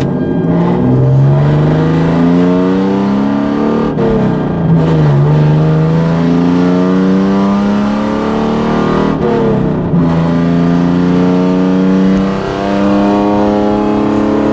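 Straight-piped 3.8-litre V6 of a Hyundai Genesis Coupe accelerating hard through the gears, heard from inside the cabin. The exhaust note climbs in pitch and drops back at each upshift, three times, then holds steady near the end.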